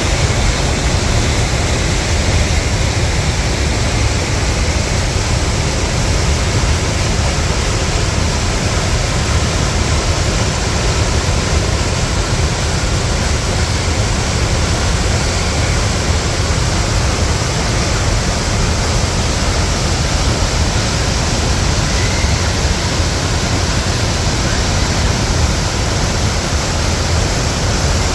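The Reedy River in flood after Hurricane Helene, its high water rushing past in a loud, steady wash of noise.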